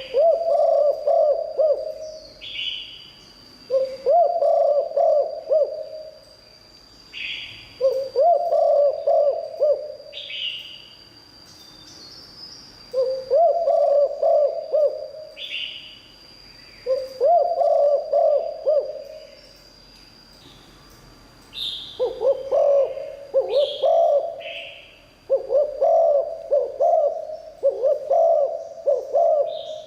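Spotted dove cooing: phrases of several coos, one roughly every three to four seconds, coming closer together from about two-thirds of the way through. A short higher chirp comes just before most phrases, over a faint steady high whine.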